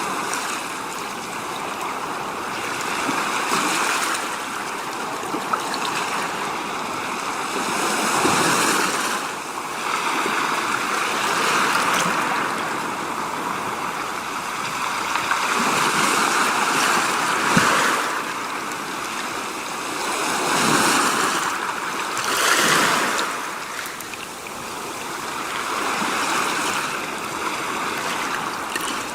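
Steady rushing water, swelling and easing every few seconds.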